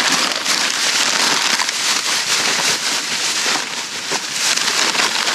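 Plastic trash bag crinkling and rustling as it is rummaged through, a dense crackle that keeps going throughout.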